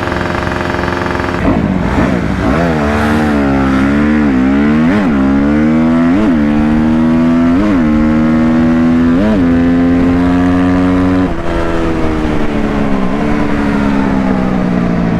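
Engine revving and held at high revs, with a sharp brief dip about every second and a half; about eleven seconds in it eases off and the pitch falls.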